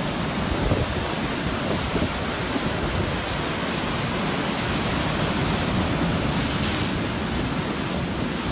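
Storm surf breaking at high tide in a blizzard, mixed with strong wind buffeting the microphone: a steady rushing noise that swells slightly about six seconds in.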